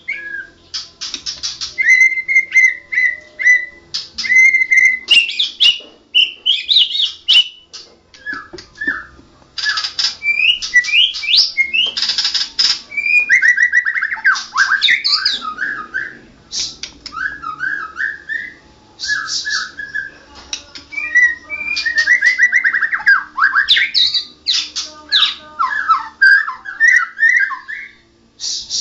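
White-rumped shama singing a long, varied song. It is a run of whistled notes and slurred glides, fast trills and harsh rattling bursts, in phrases broken by short pauses.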